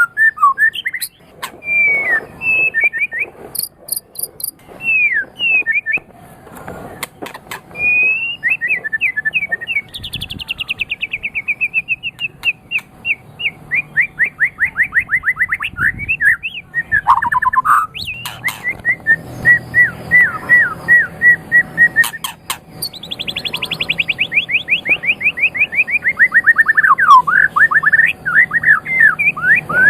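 White-rumped shama (murai batu) singing a long, varied song: short whistled phrases, then fast trills of rapidly repeated notes, some sweeping downward in pitch, with sharp clicking notes between phrases.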